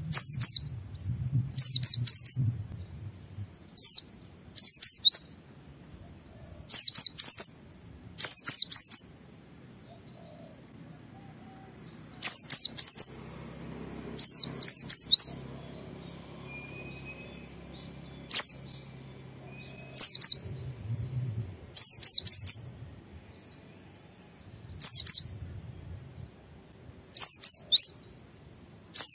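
White-eye (pleci) singing in short bursts of quick, high chirps, often in pairs, repeated every second or two with brief pauses.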